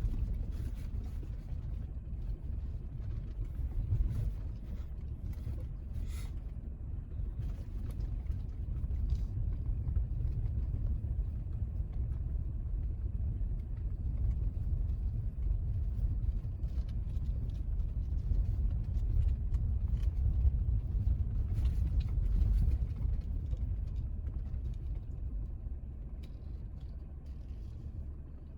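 A car driving down an unpaved, gravel-surfaced road: a steady low rumble of engine and tyres, with scattered faint clicks and knocks from the rough surface.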